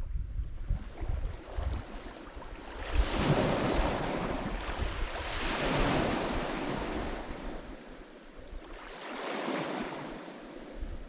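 Lake Michigan waves washing in on the shore, three surges of rushing water a few seconds apart, each building and then fading.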